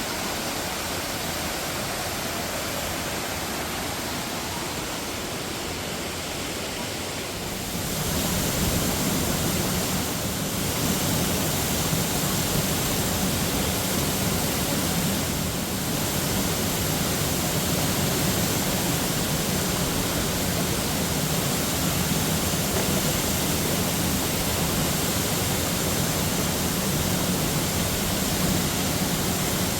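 A waterfall's falling water, a steady even rush that grows louder and fuller about eight seconds in.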